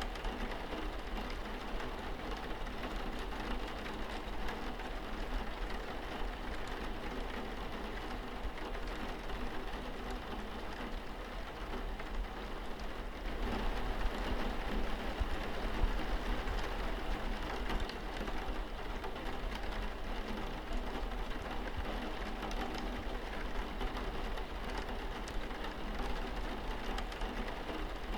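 Steady rain pattering on a window pane, a dense hiss of many small drop ticks. It grows slightly heavier about halfway through.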